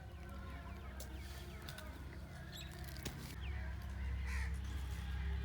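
Faint bird calls, a few short chirps, over a steady low rumble that grows louder about three and a half seconds in.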